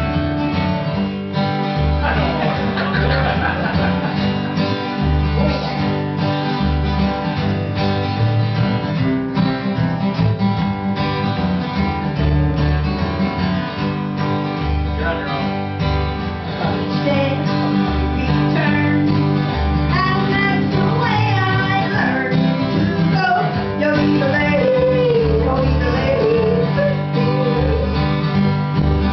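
A live traditional country band playing: strummed acoustic guitar over alternating bass notes, with a lead line that slides up and down in pitch during the second half.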